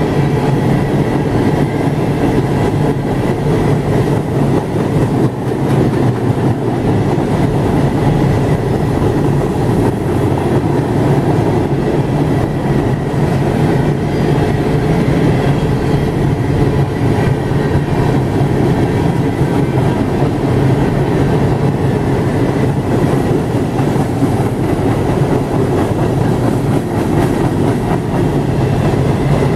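CSX freight train of open-top hopper cars rolling steadily past, its steel wheels running on the rails in a continuous rumble.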